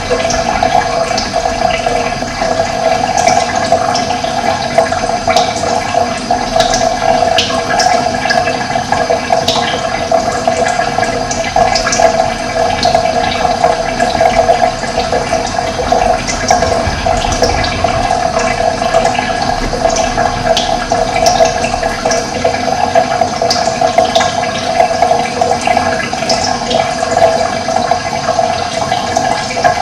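Running water rushing steadily, with short bird chirps dotted over it every few seconds.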